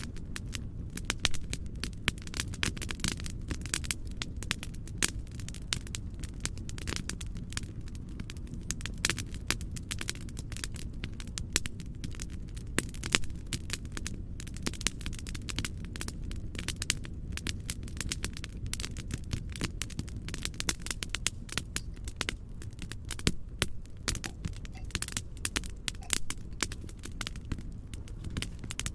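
Wood fire crackling: dense, irregular pops and snaps over a steady low rushing noise.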